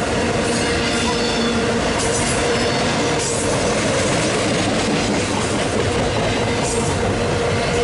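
Union Pacific freight train's well cars, loaded with garbage containers, rolling past on the rails: a steady, loud rumble of wheels on track. A steady squealing tone from the wheels runs under it, with faint clicks from the rail.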